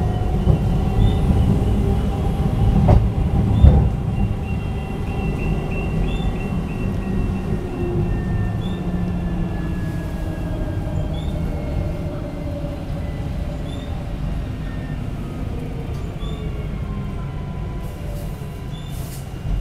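Alstom Citadis 305 light-rail tram running: a steady low rumble with the electric drive's whine gliding slowly down in pitch, the whole sound slowly fading. Two sharp knocks about three and a half seconds in, the second the loudest moment.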